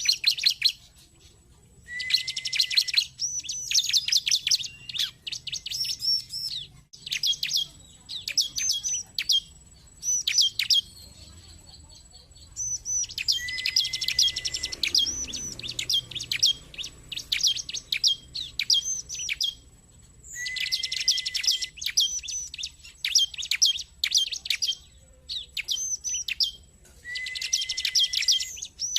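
Bar-winged prinia (ciblek) calling. Bouts open with a short level whistle and run into fast, high chattering, and they recur four times. Between the bouts come single sharp, down-slurred notes, repeated about twice a second.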